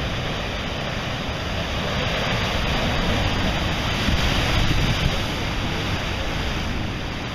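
Ocean surf washing onto the beach, a steady rushing that swells to a peak midway and then eases.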